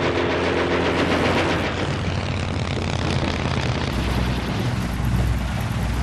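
Propeller plane's piston engine running in flight, a steady rapid pulsing drone.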